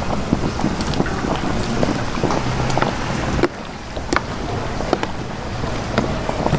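Busy street-food stall ambience: a steady din with frequent sharp clicks and clatters, dropping suddenly in level about halfway through.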